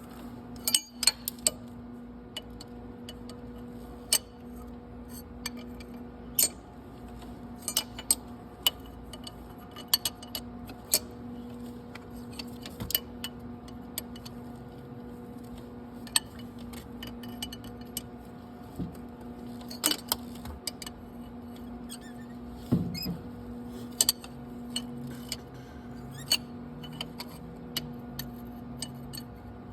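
Wrench clinking and clicking on the nut welded to a broken exhaust manifold bolt as the bolt is worked loose, in irregular sharp metallic clicks. A steady low hum runs underneath.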